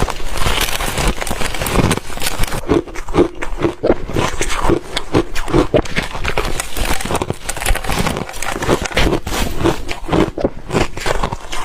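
Ice being chewed close to the microphone: dense, irregular crunching and cracking as the ice breaks between the teeth.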